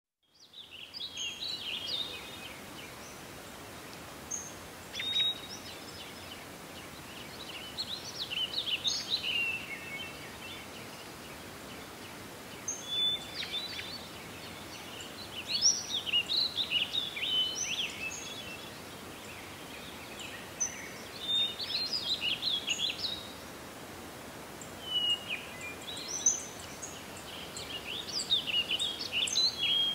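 Songbirds singing: bursts of quick, twittering phrases a second or few long, coming every few seconds over a steady outdoor hiss.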